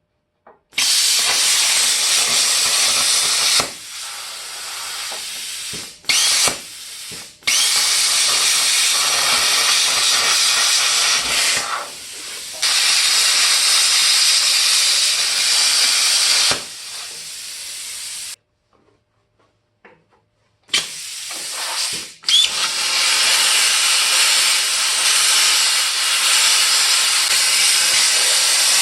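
A power cutting tool cutting through the steel of a Ford Explorer's rear frame and leaf spring: a loud, steady, even noise in long runs that stops and starts several times, with a pause of about two seconds past the middle.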